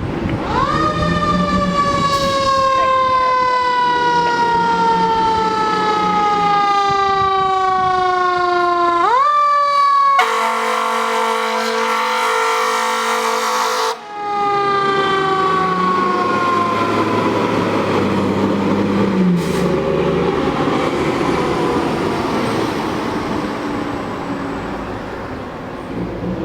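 Fire engine siren wailing in long, slow falls with a quick rise about nine seconds in, then a horn blast of about four seconds, after which the siren falls away and fades as the apparatus passes; a diesel engine drone runs underneath.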